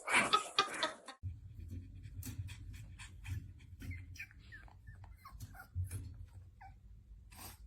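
Dog sounds: a loud, noisy burst in the first second, then faint short high squeaks and scattered clicks over a low steady hum.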